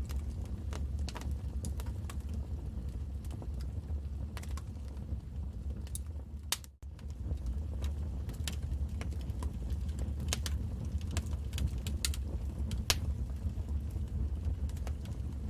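Wood fire crackling: irregular sharp pops and snaps over a steady low rumble of the burning fire. The sound cuts out for a split second about seven seconds in.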